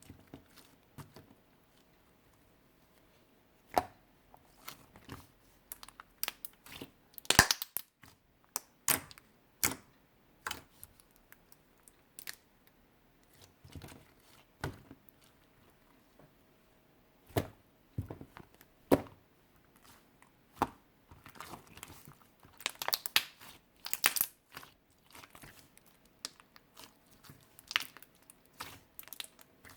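Clear slime being worked by hand, making irregular sticky clicks, pops and crackles as it is stretched and pressed, with busier clusters about a quarter of the way in and again past the middle.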